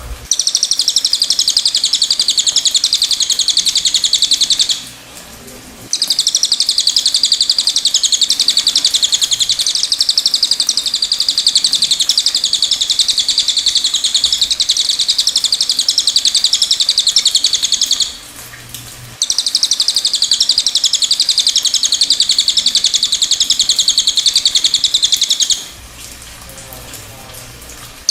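Cililin songbird singing long, rapid, high-pitched twittering phrases. The song pauses briefly twice and stops shortly before the end.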